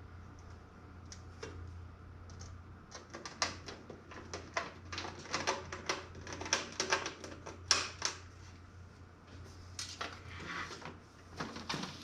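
Quick, irregular clicking and light clattering of small hard parts being handled, with a low steady hum underneath.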